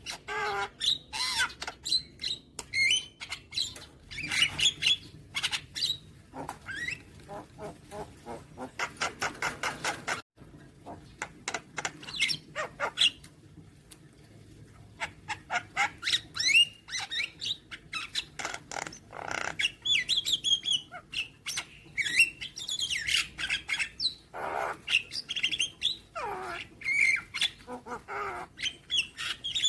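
Javan myna (jalak kebo) calling: a fast, varied run of harsh squawks, rapid chattering clicks and whistled notes that glide up and down, with a short sudden break about ten seconds in.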